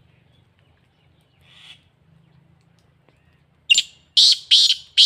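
Black francolin calling: a faint note about a second and a half in, then a loud run of four harsh, rasping notes near the end.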